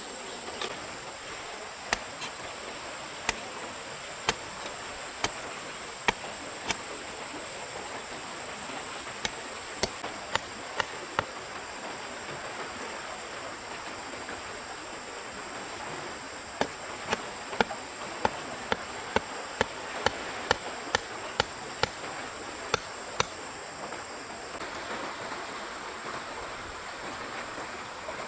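Sharp knocks like chopping or hammering, in irregular runs of one to two strikes a second. Behind them runs a steady high-pitched insect drone and the even rush of a stream.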